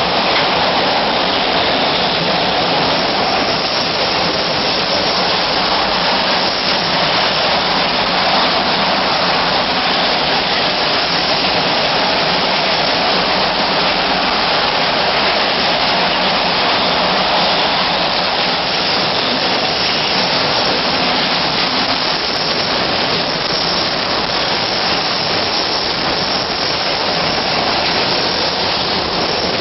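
Tropical cyclone winds of about 80 knots with driving rain: a loud, steady rush of wind and water noise with no let-up.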